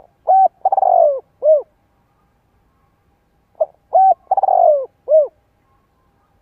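Spotted dove cooing: two full coo phrases about three and a half seconds apart, each made of short notes around a longer falling, rolling middle note.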